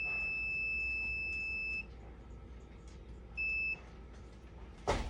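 Multimeter continuity tester beeping as its probes are put across a fuse: one steady high beep of about two seconds, then a short one about three and a half seconds in. The beep shows the fuse conducts, so it is still good.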